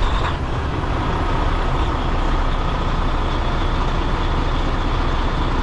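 Freightliner semi truck's diesel engine idling steadily, just after being started.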